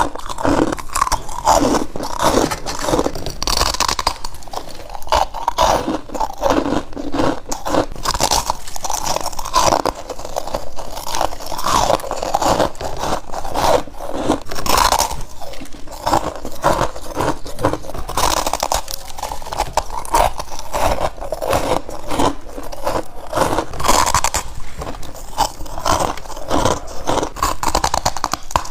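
Frost being bitten and chewed, with crisp crunches and scraping following one another closely and without pause.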